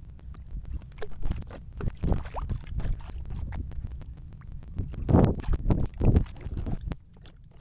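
Irregular knocks, bumps and rustling of handling on a kayak, over a low rumble of wind on the microphone; a louder run of noisy bursts comes about five to six seconds in.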